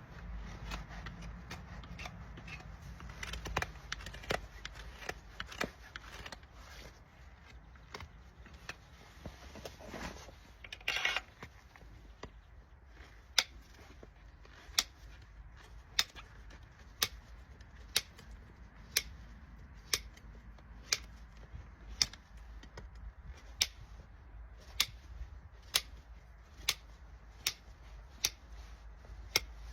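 Farrier's tools working on a shire horse's hoof: faint scraping and clicks, then from about halfway a steady run of sharp clicks or cracks, about one a second.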